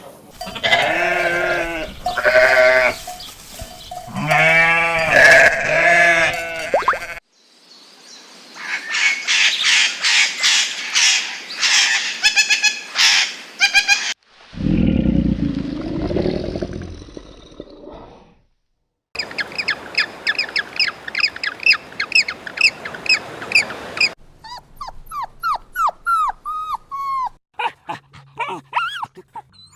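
A string of different animal calls cut one after another. It opens with several drawn-out pitched calls, then comes fast rapidly repeated calling, a low rough stretch, more rapid calling, and gliding whistled bird-like calls near the end.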